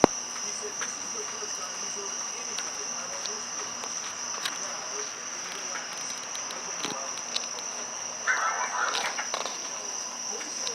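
Insects trilling in a steady, continuous high chorus, with scattered sharp ticks and a brief noisy burst about eight seconds in.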